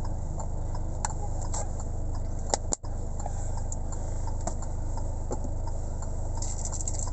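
Steady low hum of a vehicle's engine, with scattered light clicks and taps over it; the sound cuts out for an instant nearly three seconds in.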